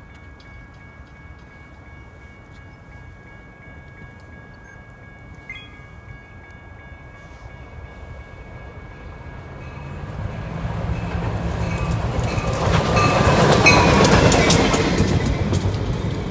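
Union Pacific yard locomotive towing a Metra passenger locomotive approaching and going by: a diesel rumble that builds from about two-thirds of the way in, with wheels clicking over the rail joints. It is loudest shortly before the end, then eases off a little.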